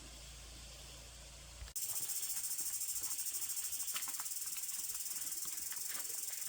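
A chorus of insects, such as cicadas or crickets, giving a loud, high-pitched, fast-pulsing buzz. It starts abruptly just under two seconds in, after a faint low hum, with scattered small clicks over it.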